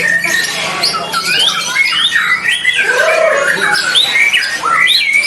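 Many caged songbirds singing at once in a contest, a dense mix of overlapping whistles, trills and chirps with no pause.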